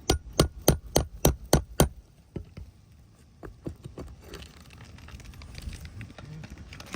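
A shingle hammer strikes a nail puller about seven times in quick succession, around four blows a second, driving it under a roofing nail in a shingle. A few lighter taps and scraping follow as the nail is worked out.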